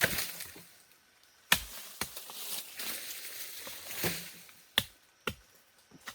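Several sharp chopping strikes, irregularly spaced about a second apart, with rustling of leaves and brush between them.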